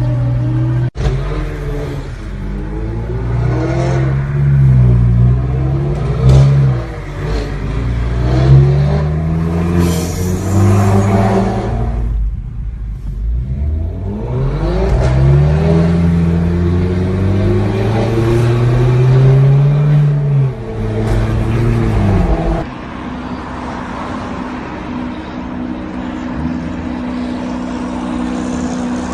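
Performance car engine revving hard again and again, its pitch climbing and dropping with each rev, with a brief gap about twelve seconds in. Near the end it settles to a steadier, quieter engine drone.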